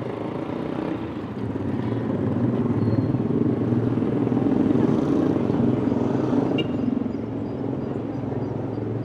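A motor vehicle passing along the street over a background of street noise. Its engine rises for a few seconds, is loudest about halfway through, and fades again.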